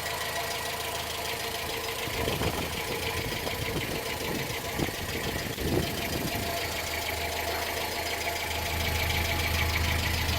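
Renault 4 GTL's 1.1-litre four-cylinder engine idling steadily through a newly fitted exhaust system, quiet and no longer blowing. Its low hum grows a little stronger near the end.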